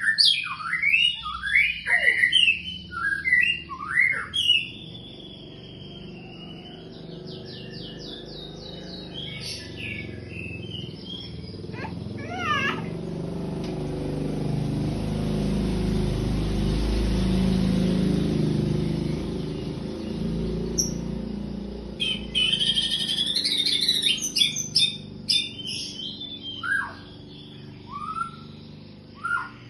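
White-rumped shama singing after its moult: bursts of varied whistled phrases, glides and fast trills. In the middle the song mostly stops while a low rushing noise swells and fades, then the rapid phrases return.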